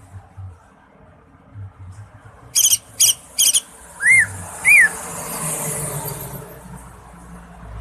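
Cucak ijo (green leafbird) singing: three quick high buzzy notes about two and a half seconds in, then two clear whistles that rise and fall, a little over half a second apart.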